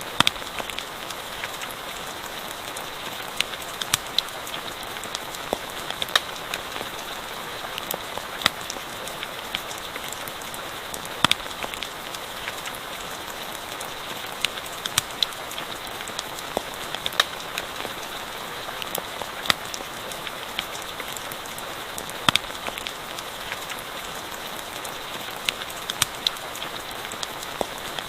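Steady rain patter with scattered sharp crackles and pops from a campfire.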